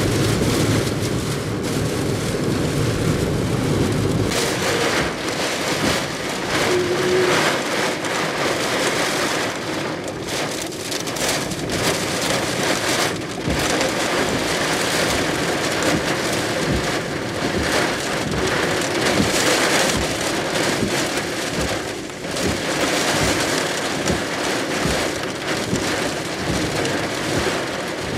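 Heavy typhoon rain pouring down in gusting wind, the downpour swelling and easing with the gusts, with a heavier low rumble in the first few seconds. The storm is Typhoon Nanmadol (No. 14) near its closest approach.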